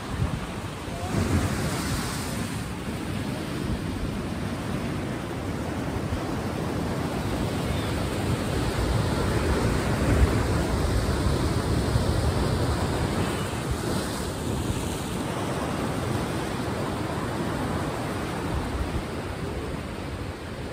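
Ocean waves washing and breaking in a steady surging wash that swells and falls slowly.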